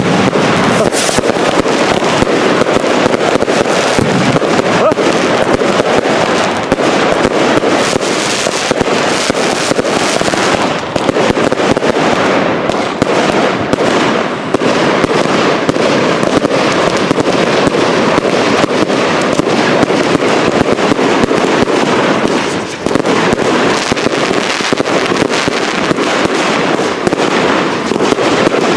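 Fireworks going off in a dense, continuous barrage: rapid bangs and crackling packed closely together with hardly a pause.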